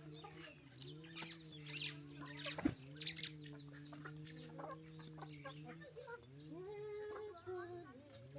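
Chickens clucking, with many short high chirps over a steady low hum. A single sharp knock comes about two and a half seconds in.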